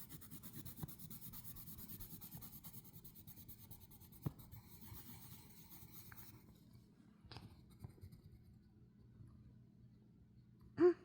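Colored pencil rubbing on paper in quick short strokes, faint; the strokes ease off about halfway through, with a couple of light taps.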